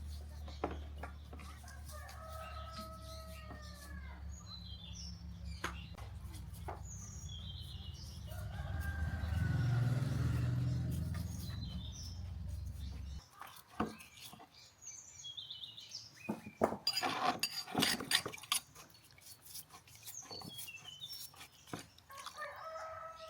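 A rooster crowing twice, once a few seconds in and again near the end, with small birds chirping. A low steady mechanical hum runs underneath and cuts off suddenly about halfway through, followed by a quick run of sharp clicks and knocks.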